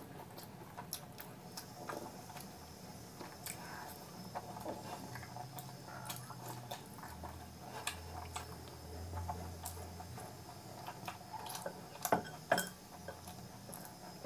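Close-miked chewing and wet mouth clicks from eating a mouthful of puri and curry, with soft squelches of fingers working in curry gravy. A couple of sharper clicks come near the end.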